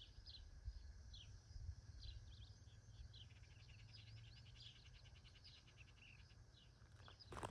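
Small birds chirping faintly, short falling notes with a quick trill in the middle, over a low wind rumble. Footsteps begin right at the end.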